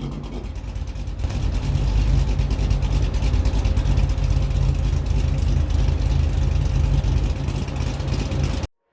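Cammed, supercharged Cadillac CTS-V V8 running loud through an exhaust fitted with QTP cutouts. It gets louder about a second in, holds steady, and cuts off suddenly near the end.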